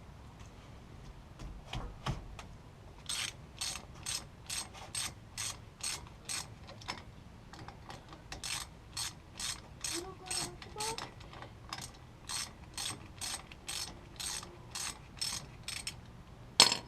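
Hand socket ratchet turning a bolt out, with short clicking back-strokes about two to three a second and a brief pause midway. One loud metallic clank near the end.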